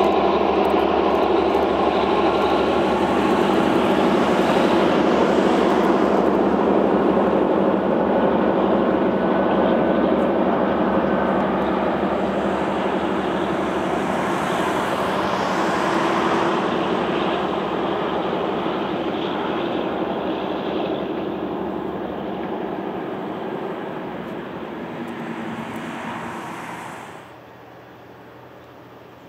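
A train going by and pulling away: a steady engine hum over a wide rolling noise. It fades gradually, then drops away abruptly near the end.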